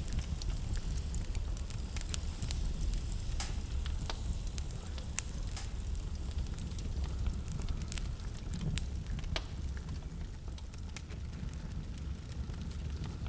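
Wood fire crackling in a fireplace: a steady low rumble of burning with frequent sharp pops and snaps, which thin out near the end.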